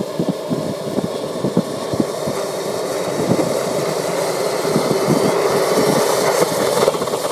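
Model helicopter engine running steadily, getting gradually louder, with a crackly, clicking edge.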